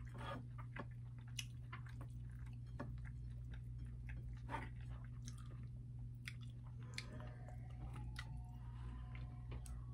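Faint chewing with small wet mouth clicks from a man eating rice by hand, over a low steady hum.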